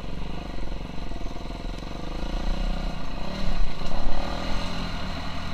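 KTM 350 SX-F motocross bike's single-cylinder four-stroke engine running, with a short burst of throttle a little past halfway before it settles back down.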